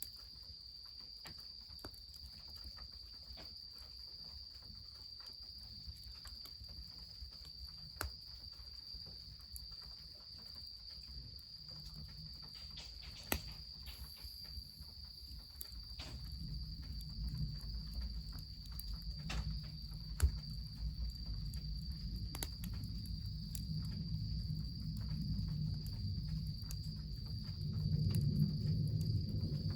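An insect chirring in one steady high unbroken tone, over the scattered sharp crackles of a wood fire. A low rumble builds in the second half and is loudest near the end.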